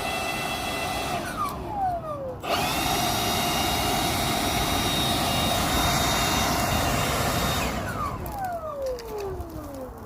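Milwaukee cordless leaf blower running with a high motor whine over a rush of air. Its trigger is released about a second in and the whine falls away, then it spins up again and runs steadily for about five seconds before winding down with a falling whine near the end.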